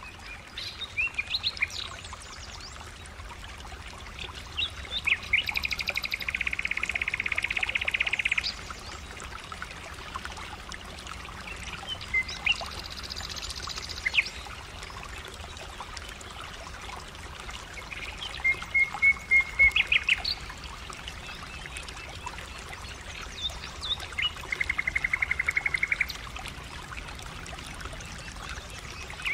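Birds calling: scattered short chirps and two long, rapid trills, one about a fifth of the way in and one near the end.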